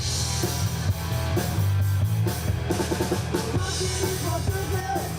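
Live rock band playing, with a drum kit and a steady bass line.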